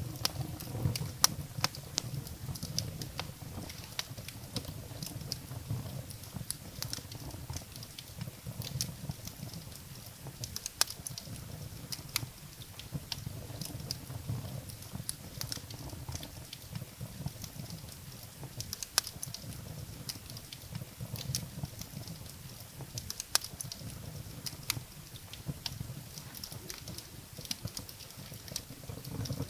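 Wood fire burning in a fireplace: irregular sharp crackles and pops of burning firewood, several a second, over a low steady rumble.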